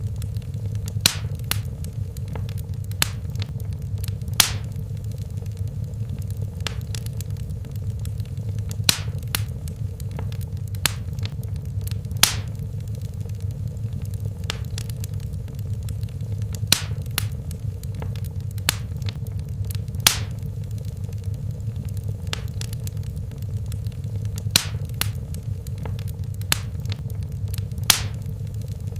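Wood fire crackling in a fireplace: sharp pops and snaps at irregular intervals, several times in every few seconds, over a steady low rumble of the burning flames.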